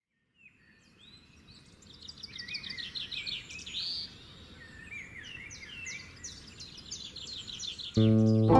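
Several birds singing outdoors, fading in: quick repeated chirps and trills over a low, steady background noise. A plucked guitar-and-bass music track starts suddenly near the end.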